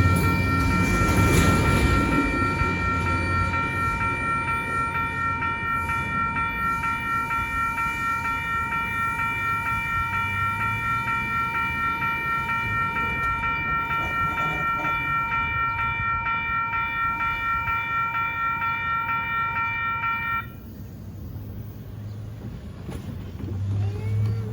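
Railroad crossing warning bell ringing steadily in rapid, evenly repeated strokes while a passing train's rumble fades over the first few seconds. The bell cuts off abruptly near the end as the crossing signal clears.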